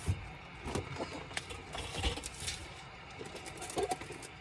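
Irregular small clicks and taps of a Dell Latitude 3301 laptop's parts and tools being handled during disassembly work, with a quick cluster of clicks near the end.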